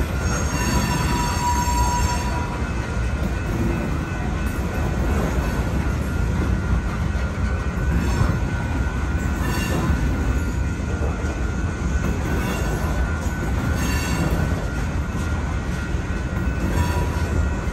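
Freight train of covered hopper cars rolling slowly across a street crossing while being shoved backward, with a steady low rumble of wheels on rail. Brief high-pitched wheel squeals come several times: about a second in, midway, and near the end.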